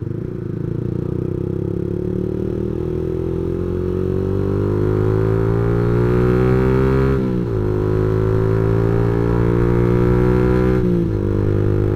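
Yamaha MX King 150's single-cylinder four-stroke engine, breathing through a custom aftermarket exhaust, pulling under acceleration on the move. Its pitch climbs steadily, drops sharply at an upshift about seven seconds in, climbs again, and drops at a second upshift near the end.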